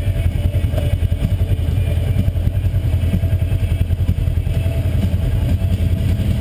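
UTV engine running steadily while the machine is driven, a deep, even drone.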